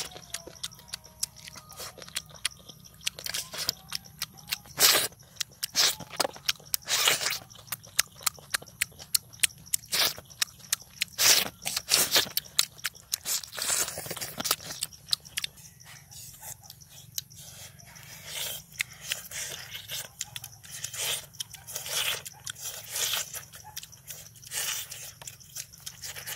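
Close-up crunching and chewing of cooked eel: irregular crisp bites through the eel's small bones and skin, with louder crunches now and then.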